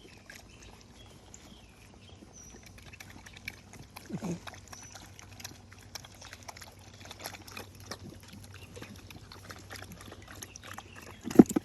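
Scattered light knocks and scuffling from a puppy and a mini goat at play, with a short low grunt about four seconds in and a sudden loud animal sound near the end.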